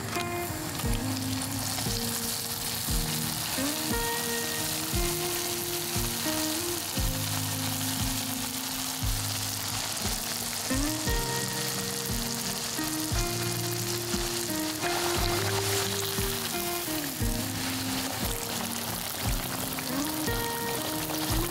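A potato and cheese patty deep-frying in hot oil in a frying pan: a dense, steady sizzle and bubbling that starts as the patty goes into the oil. Background music with a steady beat plays underneath.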